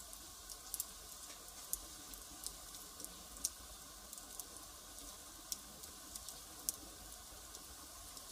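Burning firewood crackling: irregular sharp pops and snaps over a steady soft hiss of flame.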